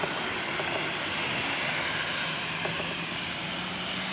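Boeing 737-800's CFM56-7B jet engines running at high power for takeoff, a steady dense rushing noise. A low steady hum joins about halfway through.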